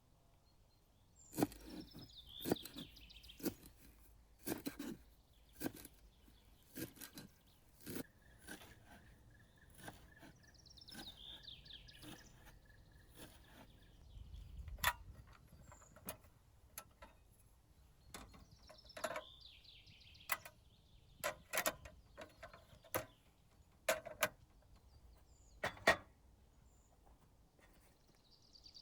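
Birds chirping in short falling phrases, three times, against a string of irregular sharp cracks and clicks about one to two seconds apart.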